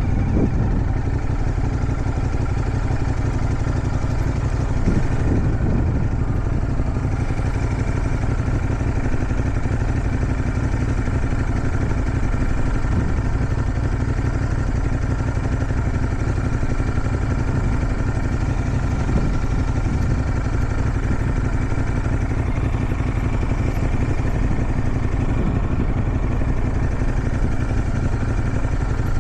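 Motorcycle engine running at a near-constant speed while riding, with steady wind noise over it.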